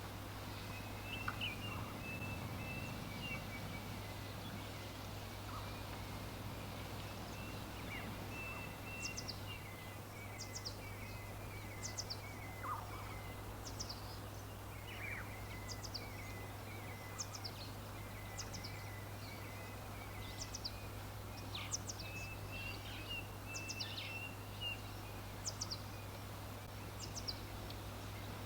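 Wild birds singing and chirping: a warbling chatter throughout, joined about a third of the way in by short, high, falling chirps repeating every second or so, over a steady low hum and background hiss.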